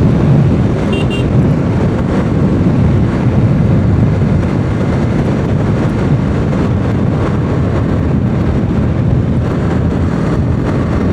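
Steady rushing wind on the microphone of a Bajaj Pulsar 200 NS motorcycle under way, with the bike's engine and road noise beneath it.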